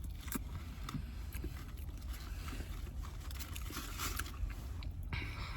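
Steady low rumble with a faint hiss and a few soft, scattered clicks.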